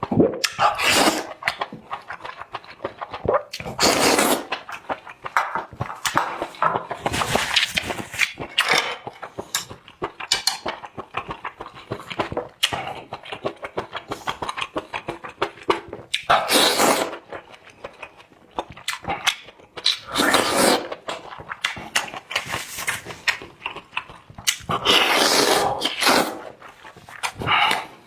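Close-miked eating of spicy marinated octopus skewers. Several loud wet slurps, each about a second long and a few seconds apart, come with many small chewing and smacking clicks in between.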